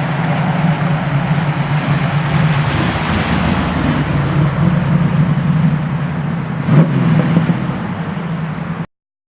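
1969 Chevrolet Camaro's big-block V8 running loud under load as the car is driven, with a brief sharp crack about seven seconds in. The sound cuts off abruptly near the end.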